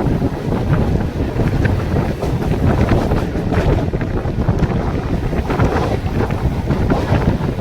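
Suburban electric local train running at speed: a loud, steady low rumble from the carriage with irregular rattles and clacks, and wind buffeting the microphone.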